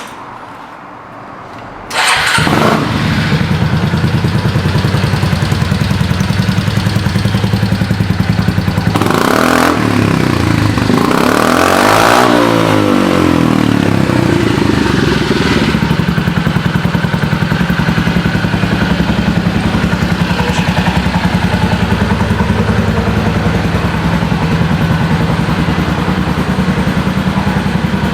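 Yamaha Majesty scooter with an aftermarket upswept muffler being started about two seconds in and settling into a steady idle. It is revved twice in a row, rising and falling, about ten seconds in, then idles on.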